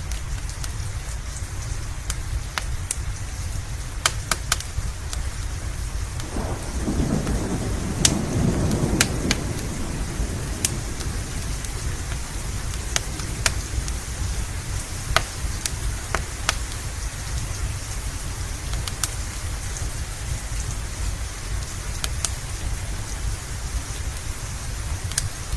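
Steady rain, with a rumble of thunder swelling and fading between about 6 and 10 seconds in. Scattered sharp pops come through the rain.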